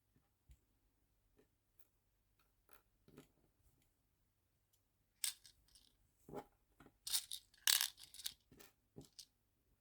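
Small clicks, taps and short rustles of tiny nail charms and plastic storage containers being handled and sorted. The sounds are sparse at first and come thick and fast from about five seconds in.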